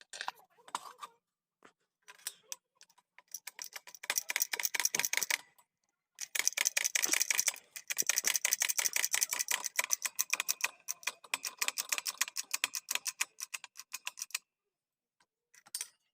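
Rapid, regular light clicking, about ten clicks a second, in two long runs with a short break about six seconds in.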